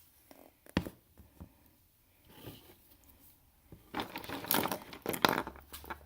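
Handling noises: a single sharp click a little under a second in, then about two seconds of crinkling, rustling and scraping with quick clicks near the end.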